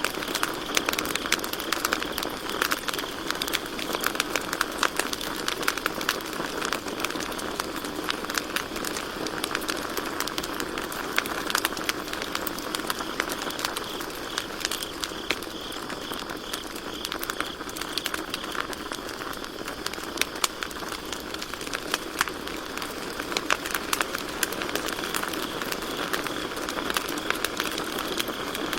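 Campfire burning steadily, crackling in frequent sharp snaps over a soft hiss, with crickets chirping in a steady high band behind it.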